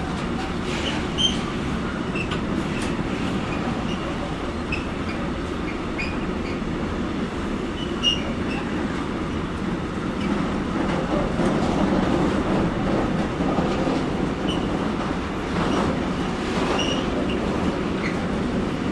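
A train running along the line: a steady rumble of wheels on rails that grows a little louder about halfway through, with a few brief high squeaks.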